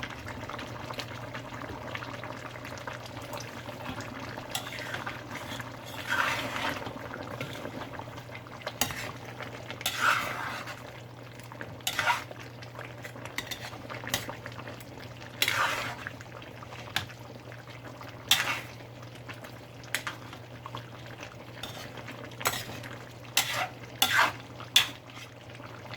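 A cooking utensil stirring potatoes into a pot of chicken curry, knocking and scraping against the pot in irregular clatters, over a steady low hum.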